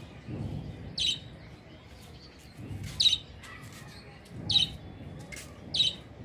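Small pet bird chirping: short, high calls a second or two apart, about five in all.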